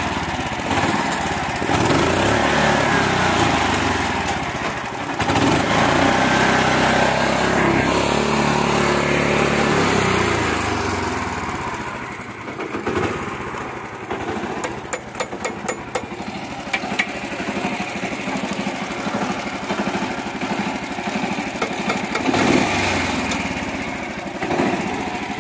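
Mini tractor's small engine running steadily, then dropping to a quieter, lower running about eleven seconds in, with a quick run of clicks a few seconds after.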